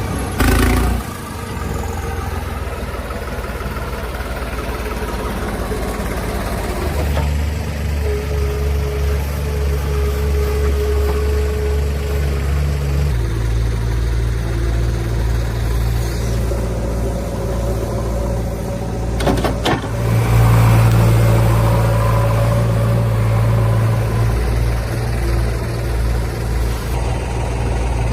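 Heavy diesel engine running steadily, its speed shifting up and down every several seconds as it works under changing load. A couple of sharp knocks come about two-thirds of the way through.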